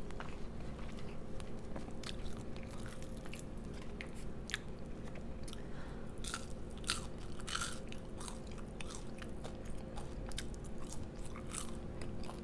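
Close-miked chewing and biting with crisp crunches, from eating a fried chicken sandwich: many short crackles scattered throughout. A steady low electrical hum runs underneath.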